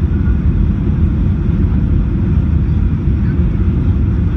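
Steady loud rumble of a Ryanair Boeing 737's engines and airflow heard inside the passenger cabin.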